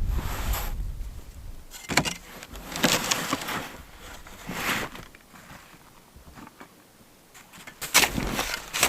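Wind buffeting the microphone briefly, then rustling, scuffs and sharp knocks of camp gear being handled and moved, going quiet for a couple of seconds before a cluster of knocks near the end.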